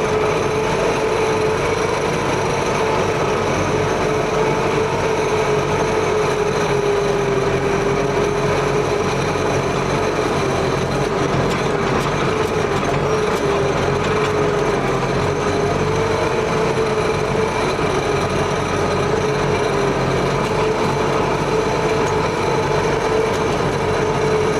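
T-74 crawler tractor's diesel engine running steadily, with a constant high whine over the engine noise.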